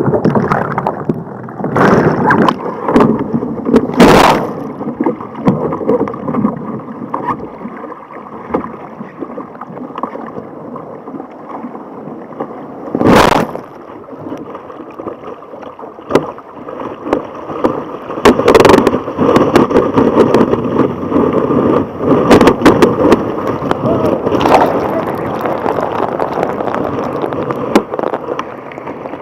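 Water rushing and splashing around a kayak riding small surf, with repeated sharp splashing hits against the hull and paddle, the loudest about 13 seconds in.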